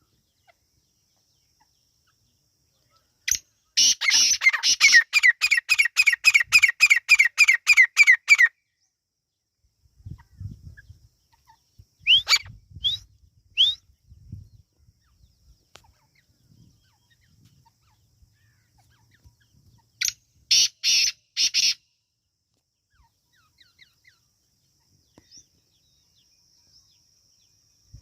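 Teetar (francolin) calling: a loud, rapid series of about sixteen repeated harsh notes lasting some five seconds. It is followed by three short rising chirps and, near the end, three more loud notes.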